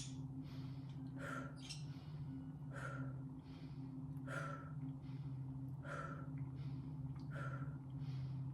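Rapid rhythmic breathwork: a forceful exhale, then a quick, softer inhale, repeating about every one and a half seconds, over a steady low hum.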